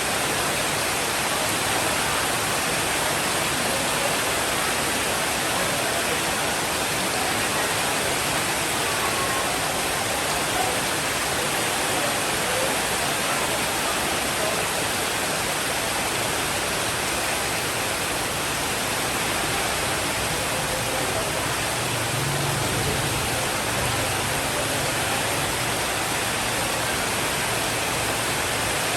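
Steady heavy rainfall, an even rushing hiss with no individual drops standing out. A soft, low rumble of distant thunder rises near the end.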